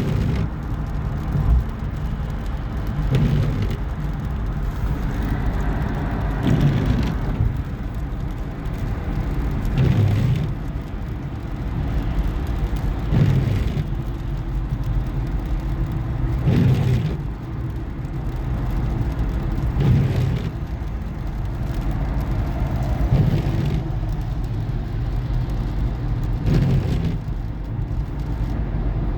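Steady road noise of a vehicle driving, a low rumble with a brief regular swell about every three seconds.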